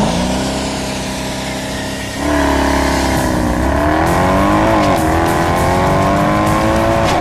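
A car engine running. It holds a steady note, then gets louder about two seconds in; its pitch dips and climbs again around the middle, and it holds steady to the end.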